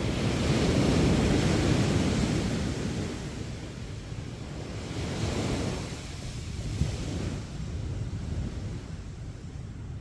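Sea waves breaking on a beach, the wash swelling loudest in the first couple of seconds and again more softly about five seconds in, with some wind on the microphone.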